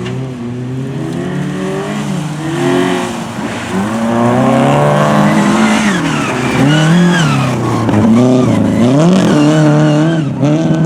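Rally car engine revving hard. Its pitch climbs and drops sharply several times in quick succession in the second half.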